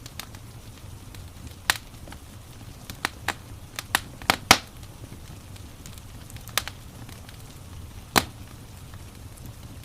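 Wood fire crackling: irregular sharp pops and snaps, several close together about three to four and a half seconds in, over a low steady rumble.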